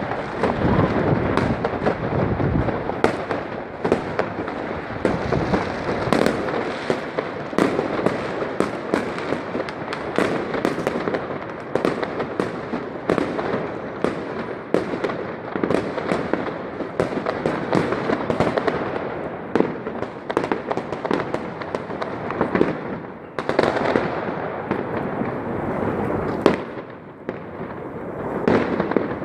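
Many fireworks going off at once: a continuous crackling din of bangs and firecracker pops, dense and unbroken throughout.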